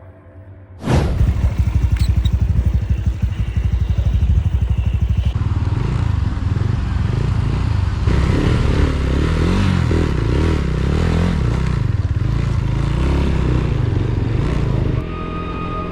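Motorcycle engine cutting in abruptly about a second in and running with a rapid pulsing beat. After about five seconds it is riding, with the engine revving up and down under wind noise. It gets quieter near the end.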